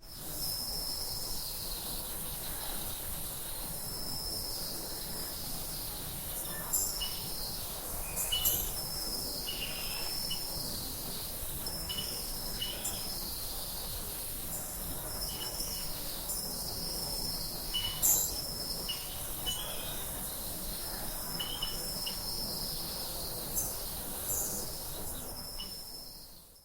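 Outdoor nature ambience: a steady high insect buzz, with a high trilling call held about a second that repeats every few seconds. Short bird-like chirps come in between, and a few sharper chirps stand out.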